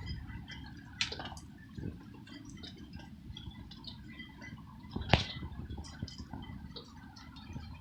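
Rain dripping from a shelter: scattered drops ticking and splashing over a low background rumble, with two louder drops, one about a second in and one around five seconds.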